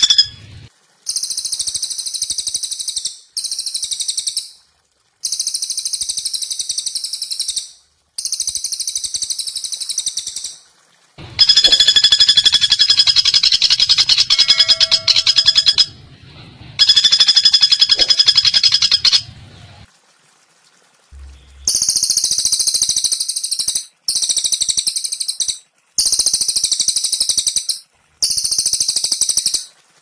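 Recorded songbird calls of a black cililin and a pelatuk bawang woodpecker: repeated high, rapidly pulsed call bursts about one to two seconds long, separated by short pauses. A fuller stretch with steady pitched notes comes midway.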